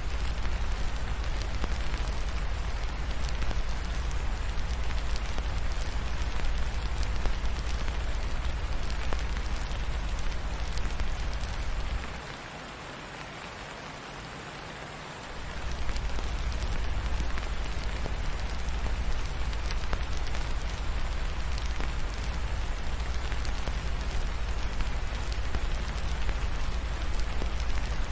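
Steady rain with a fireplace crackling, over a deep low rumble. About halfway through the rumble drops out for roughly three seconds, leaving the rain and crackle quieter, then returns.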